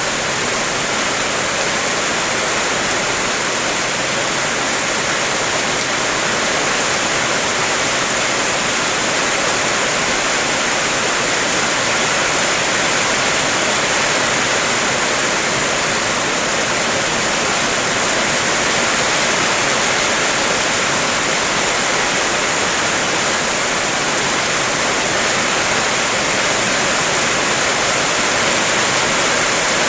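Heavy rain falling on a car, heard as a steady, dense hiss with no single drops standing out.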